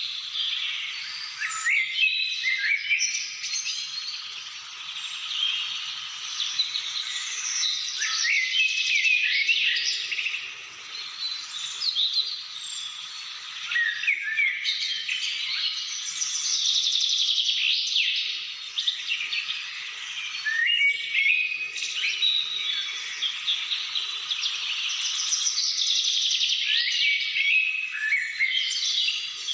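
Many birds singing together in a dense chorus of overlapping chirps, trills and high whistled notes, continuous with no pause.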